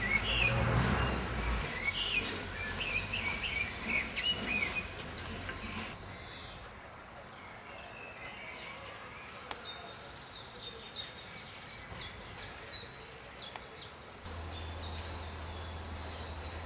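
Birds chirping: scattered calls over some knocks in the first few seconds, then, from about halfway through, a steady run of short high chirps, about three a second.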